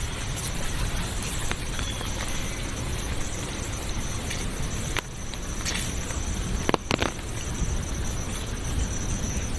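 Forest nature ambience: a steady wash of running water with a continuous high insect buzz over it, and a few sharp clicks a little after the middle.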